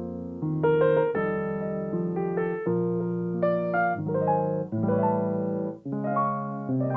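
Solo piano playing slow chords and melody, each chord struck and left to ring, with a new one about every second.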